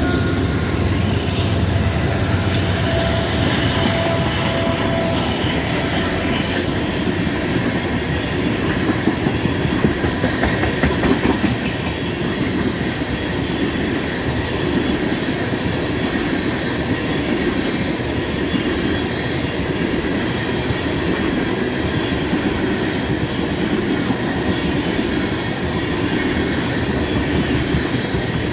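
Freight train rolling past close by. A GE C44-9W diesel locomotive goes by in the first couple of seconds, then a long string of tank cars follows with a steady rolling rumble and wheel clatter over the rails, a little louder about nine to eleven seconds in.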